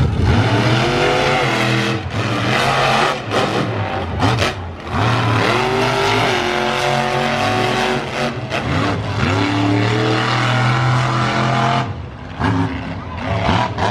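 Monster truck engine revving hard, its pitch climbing and dropping several times as the throttle is opened and eased off.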